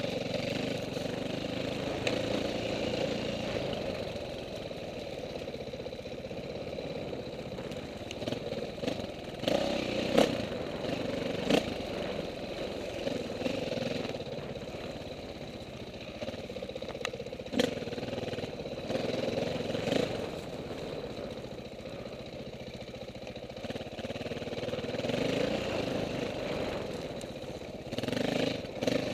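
Off-road motorcycle engines at a hare scramble race, their sound rising and falling as the bikes rev. A few sharp clacks stand out, the loudest about ten seconds in.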